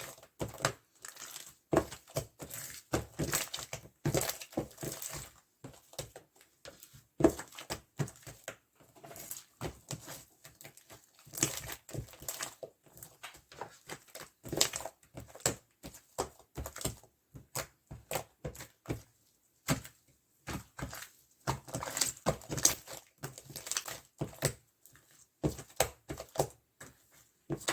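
Velvet slime with mermaid powder being squished and pressed by hand, giving a dense run of irregular sticky pops and clicks with brief pauses.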